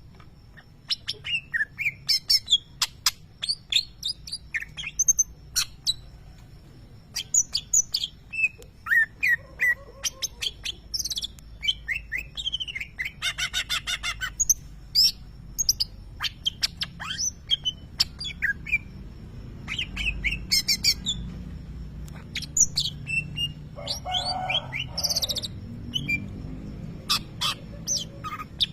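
Cucak ijo (greater green leafbird) singing in quick bursts of sharp, high chirps and short whistles, with a dense rapid trill about halfway through. The shrill chirping is its mimicry of lovebird calls.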